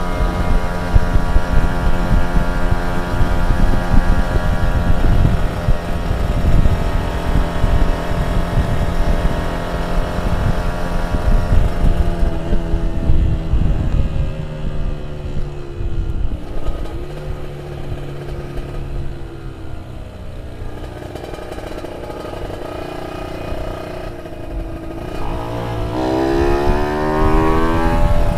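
Two-stroke motorcycle engine running at high revs that slowly sink over the first dozen seconds, then rise and fall unevenly, and climb sharply in a rev-up near the end.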